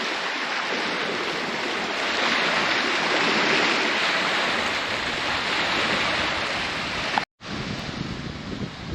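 Steady rushing of water, an even hiss-like wash that stops abruptly about seven seconds in; after it come gusts of wind buffeting the microphone.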